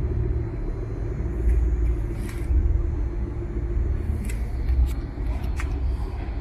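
Low, steady rumble of a car engine running nearby, with a few faint clicks.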